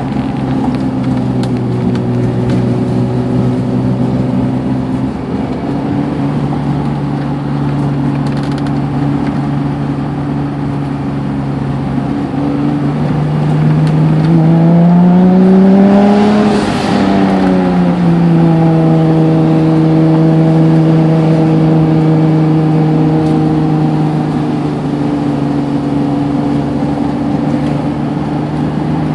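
Turbocharged NSX's V6 engine heard from inside the cabin, running steadily at low revs. About thirteen seconds in it revs up under acceleration and peaks with a brief rush of noise, then drops back and settles into a steady run.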